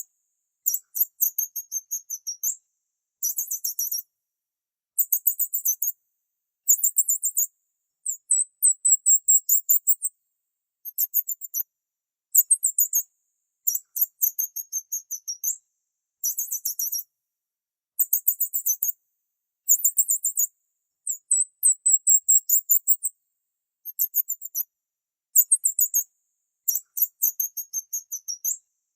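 Small bird chirping in very high-pitched, rapid trilled phrases about a second long, repeated over and over with short silent gaps between them.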